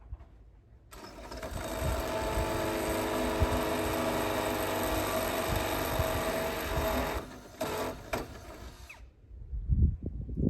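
An electric power tool's motor runs at a steady pitch for about six seconds, then is switched on and off in a few short bursts.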